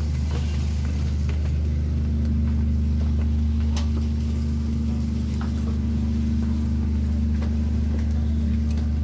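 Steady low rumble of a running vehicle engine with a steady hum and a few faint clicks.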